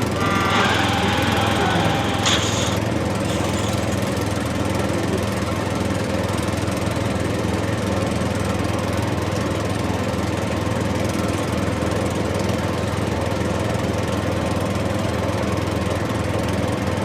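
Engine running steadily with an even drone. A brief higher-pitched tone sounds over it near the start.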